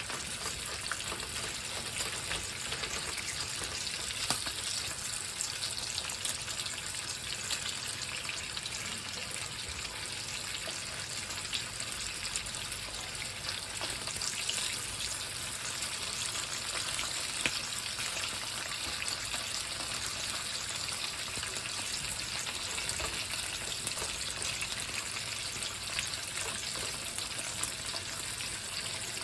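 Bacon sizzling in a frying pan: a steady, dense sizzle dotted with many small pops, jumping up in level at the very start.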